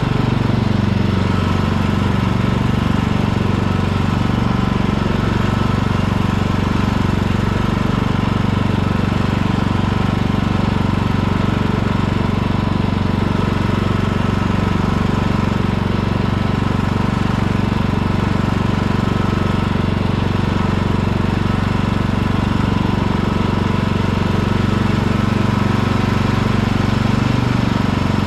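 Hecht ride-on garden tractor mowing: its engine runs steadily under load with the cutting deck engaged, and a faint steady high whine rides over the engine note.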